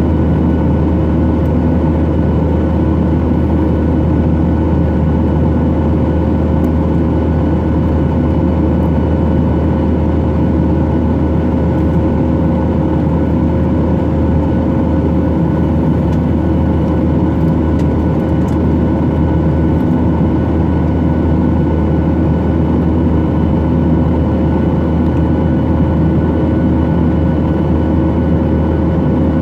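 Steady engine and airflow noise heard inside the cabin of a Boeing 737-800 with its CFM56-7B engines running: a loud, even low rumble with a few faint steady tones, unchanging throughout.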